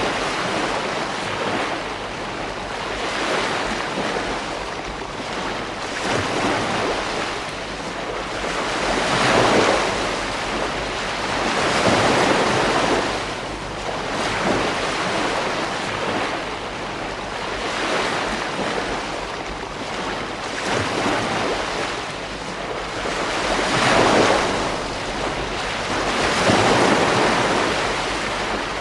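Ocean waves breaking and washing on a beach, surging every three seconds or so over a steady hiss of surf, with some wind.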